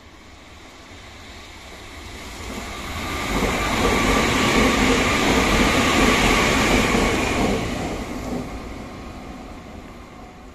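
Nankai 50000 series Rapi:t electric limited express running through a station: the rumble of the train builds over the first few seconds, is loudest in the middle with a steady high whine on top, then fades away as it passes.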